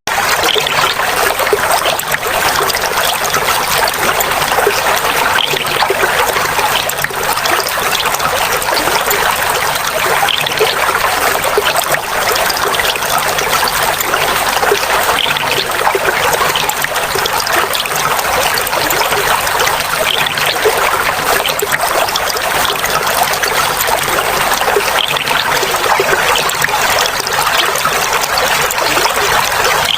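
Clear water flowing and trickling steadily, a dense splashing babble with no pause.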